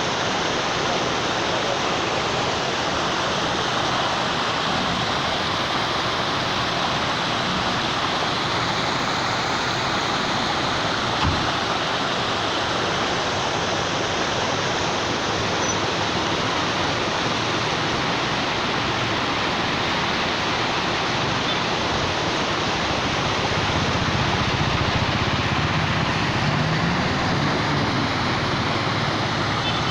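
Heavy rain pouring down and runoff rushing along a flooded street, a steady hiss. A single thud about eleven seconds in, and a low rumble swells in the last few seconds.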